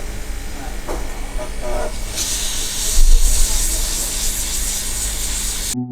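Hot-air rework gun blowing with a steady hiss and low rumble while desoldering the motherboard's BIOS chips, turning louder and brighter about two seconds in, with a knock about a second later. Music cuts in right at the end.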